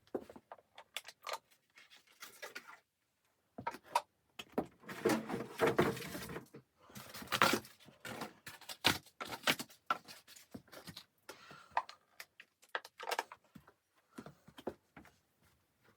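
Handling noises: irregular clicks, light knocks and rustling, busiest from about four to eight seconds in.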